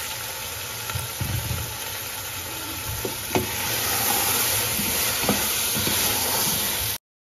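Keema with onions and spices sizzling in a steel pot while raw potato chunks are stirred in with a wooden spoon, the spoon knocking against the pot a few times. The stirring gets louder about halfway through, and the sound cuts off abruptly near the end.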